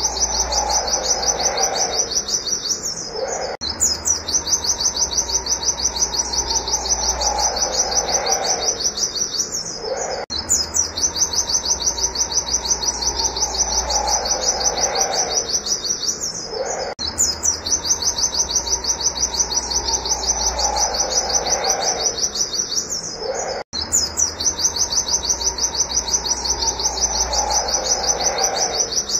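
White-eye (pleci) singing a fast, unbroken string of short, high 'wit wit' notes. The run breaks briefly and starts again about every seven seconds, with a fainter falling sound beneath each run.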